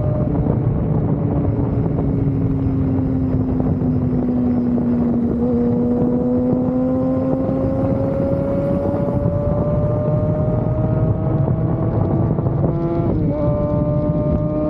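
Sport motorcycle engine running steadily at speed under heavy wind noise on the microphone. The engine note slowly falls, then climbs, and shifts quickly about 13 seconds in.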